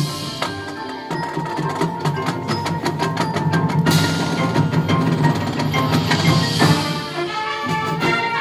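Marching band playing its field show: sustained brass and wind notes over drum and mallet percussion, with bell-like and wood-block strikes.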